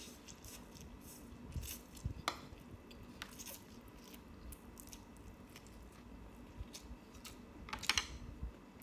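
Close-up eating sounds: chewing and mouth clicks, with light clinks of cutlery on a plate, a louder cluster of clicks near the end.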